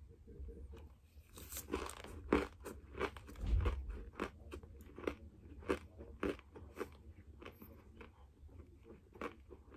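Close-miked chewing of a mouthful of raw cornstarch: a run of sharp, squeaky crunches, thickest in the first half and thinning out toward the end.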